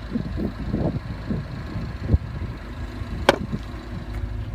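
Low steady outdoor rumble with a few soft knocks, and one sharp click about three seconds in.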